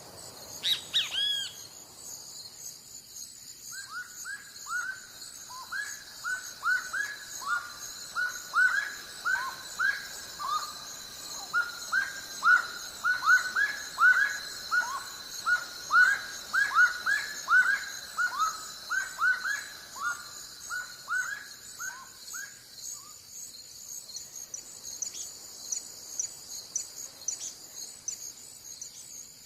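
A bird calling a long series of short down-slurred whistled notes, two or three a second, for about twenty seconds, then stopping. Under it a steady, high-pitched chorus of insects runs throughout.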